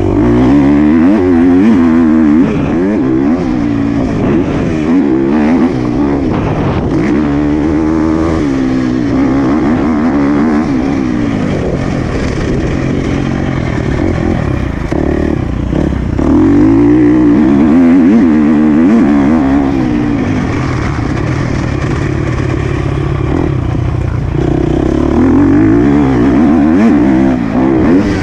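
Motocross bike engine revving up and backing off over and over as it is ridden hard around the track. The loudest pulls come a couple of seconds in, from about sixteen to nineteen seconds, and again near the end.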